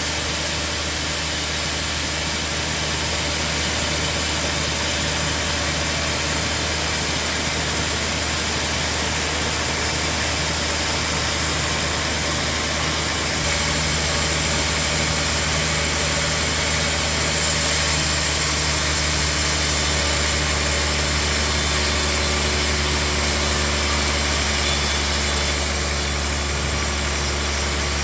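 Sawmill bandsaw running with a steady machine hum, its sound shifting about halfway through.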